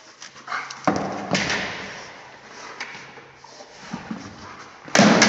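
A dog's plastic jolly ball banging and thudding as the dog swings it about in play. There are a couple of knocks about a second in and a loud thump near the end.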